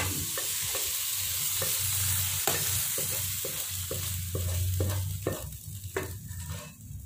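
Fried rice porridge sizzling in a hot wok while a utensil scrapes and taps against the pan, pushing the porridge out onto a plate. The sizzle dies down near the end.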